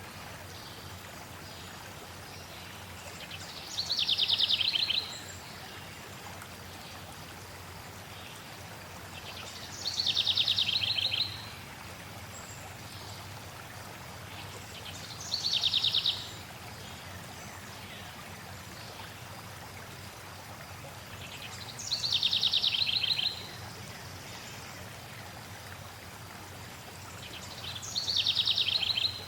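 Steady rushing of flowing water, with a songbird singing a short phrase about every six seconds. Each phrase starts high and drops into a fast trill lasting about a second.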